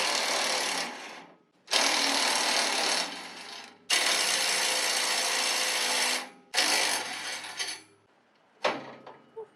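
Power tool run in four bursts of about one to two and a half seconds each, starting abruptly and dying away as the trigger is let go, followed by a couple of brief short runs near the end.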